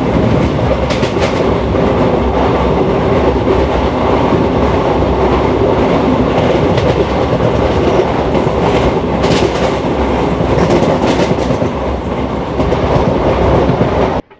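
Passenger train running along the track, a loud steady rumble of wheels and rails heard from the coach's open side, with a few sharp clicks. It cuts off suddenly near the end.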